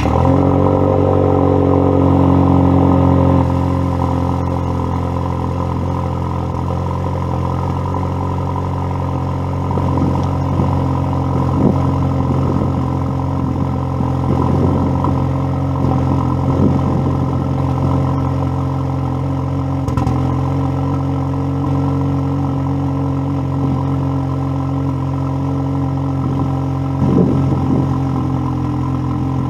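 Ford Focus ST engine catching on a cold start and running at a raised, louder idle for the first few seconds. About three and a half seconds in it drops to a steady cold idle.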